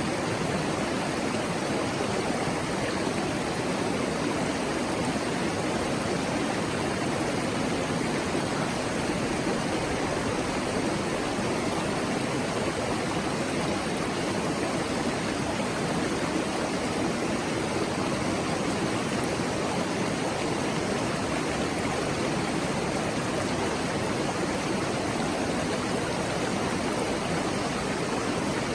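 Mountain stream flowing over rocks: a steady rush and babble of water.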